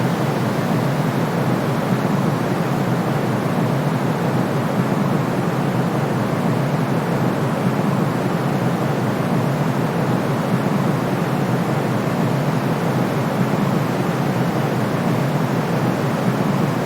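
Steady, unchanging white noise for sleep, a full hiss weighted toward the low and middle range rather than the top.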